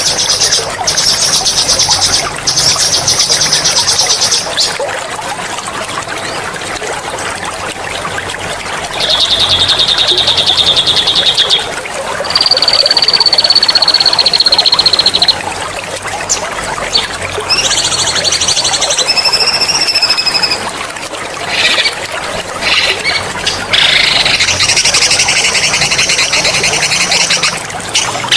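A songbird singing loud, sharp rolling trills in several long phrases, with one long steady high whistle in the middle, over the constant trickle of flowing water.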